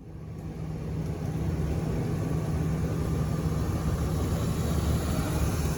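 Car engine idling with a steady low rumble, fading in over the first second.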